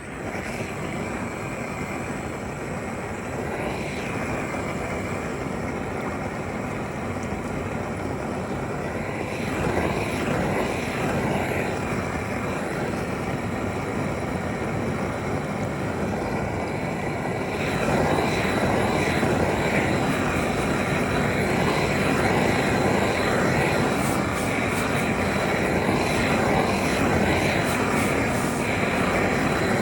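Steady drone of factory machinery, a dense even noise with faint steady high tones over it. It grows louder about a third of the way in and again about two-thirds through.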